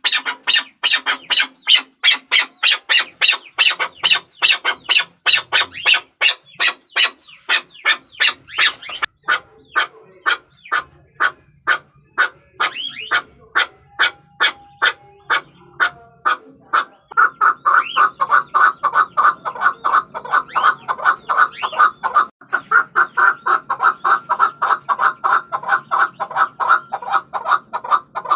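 Chukar partridges calling: a fast, even run of short clucking notes, several a second, that becomes lower-pitched a little past halfway through.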